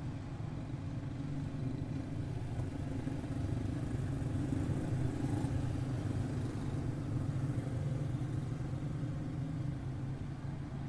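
A pack of quarter midget race cars with small single-cylinder Briggs & Stratton Animal engines running laps together: a steady engine drone that swells a little in the middle.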